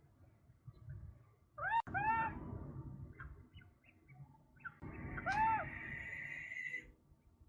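A bird calling twice, each call a short arched note, about three seconds apart. A steadier, higher note runs for about two seconds under the second call, over a faint low outdoor rumble.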